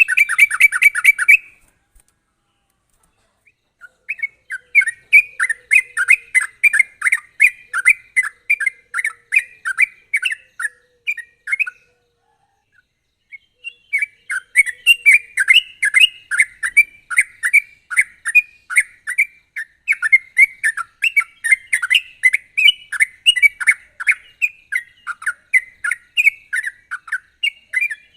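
Yellow-vented bulbul (trucukan) singing its fast rolling 'ropel' song: long runs of quick, short notes, several a second, broken by a short pause about two seconds in and another about twelve seconds in.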